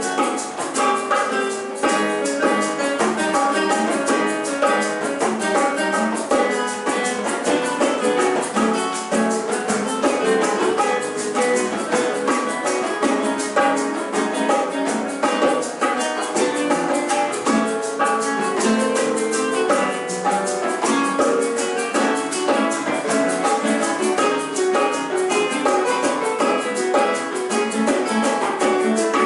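Classical guitar trio playing a busy, continuous passage of plucked notes.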